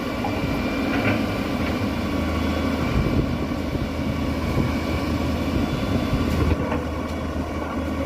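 Engine of heavy construction machinery running steadily at an even pitch, with a couple of faint clicks.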